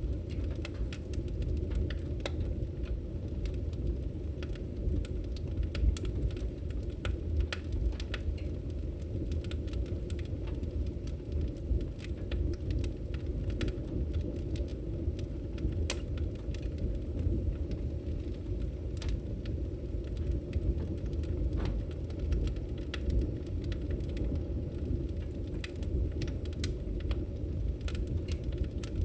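Wood fire crackling in a fireplace: a steady low rumble of flames with frequent irregular sharp crackles and pops.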